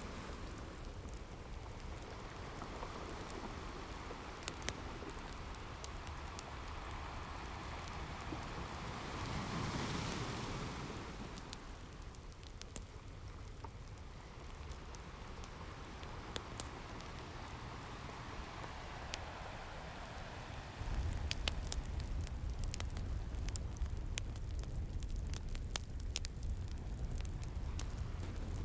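Ocean waves washing in with a crackling wood fire: a steady hiss that swells about ten seconds in, with scattered sharp crackles. About two-thirds of the way through a louder low rumble comes in and the crackles come thicker.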